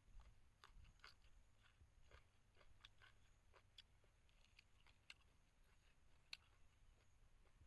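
Faint close-up chewing of stir-fried shrimp and yard-long beans: soft, irregular mouth clicks and small crunches, a few each second, with one sharper click about six seconds in.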